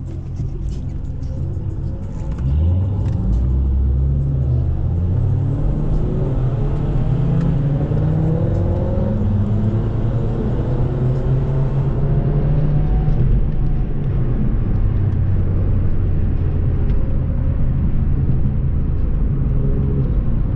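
Car engine running under acceleration, a low drone that gets louder about two seconds in, its pitch rising steadily over several seconds in the middle before settling back into a steady run.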